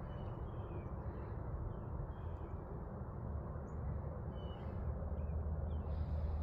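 Woodland birds chirping faintly, short repeated calls scattered throughout, over a steady low rumble.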